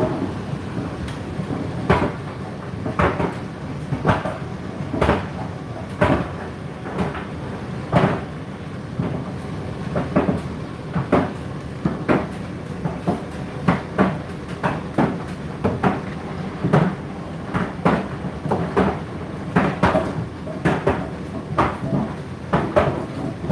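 Laundry-appliance drum turning with clothes tumbling inside: a steady running hum broken by irregular thuds, about one a second, as the load drops in the drum.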